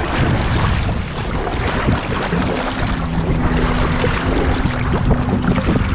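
Strong wind buffeting the microphone over choppy lake water slapping around a small kayak.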